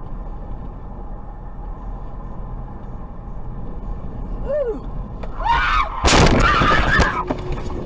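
Steady road and engine rumble heard from inside a moving car, then a shrill rising sound and, about six seconds in, a loud crash-like burst of noise lasting about a second, typical of a vehicle collision caught on a dashcam.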